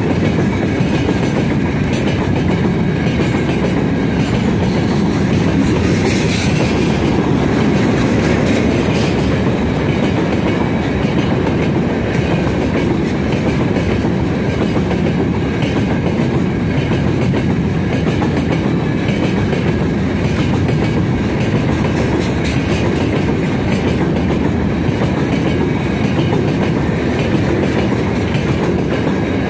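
Freight train's open gondola wagons rolling past close by: a steady, loud rumble of steel wheels on rail, with the clickety-clack of wheels over rail joints.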